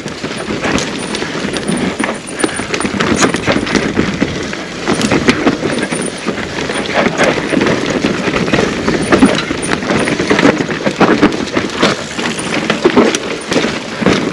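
Mountain bike ridden down a rough dirt trail: tyres running over dirt and roots, with the chain and frame rattling and many sharp knocks from bumps.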